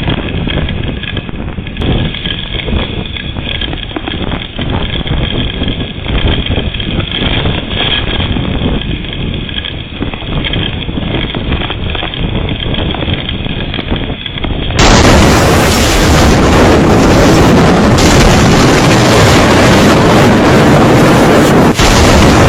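Typhoon wind buffeting the microphone in a steady, rough rush of noise. About fifteen seconds in, it cuts to a second, louder recording of the gusting wind.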